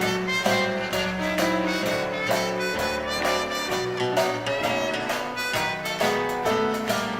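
Small dance orchestra playing an instrumental chorus of a 1920s–30s popular song in a swing style, with a steady beat and no vocals.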